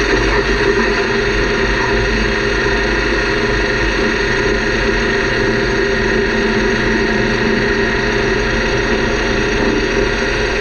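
Metal lathe running steadily while taking a cut on a metal gear blank, reducing its thickness.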